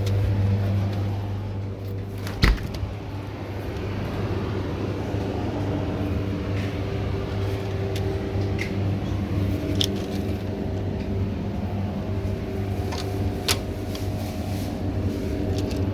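Steady low machine hum with a few faint tones above it, broken by one sharp knock about two and a half seconds in and a few lighter clicks later.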